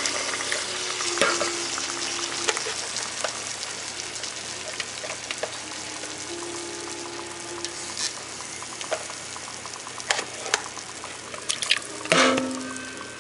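Whole fish frying in oil in a pot: a steady sizzle with scattered pops and crackles that slowly dies down. A brief loud knock comes near the end.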